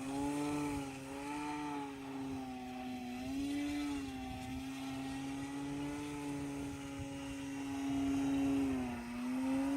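Electric motor and propeller of a Hacker Ultimate 1000 RC model plane whining in flight, its pitch wavering up and down with throttle and manoeuvres. A low rumble of wind buffets the microphone underneath.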